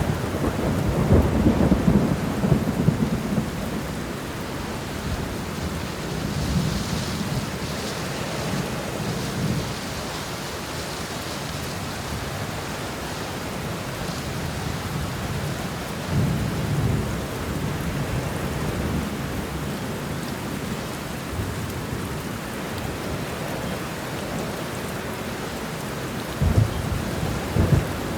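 Thunderstorm: steady rain with rolling thunder, the loudest rumbles about a second in, again in the middle, and a sharper crack-like rumble near the end.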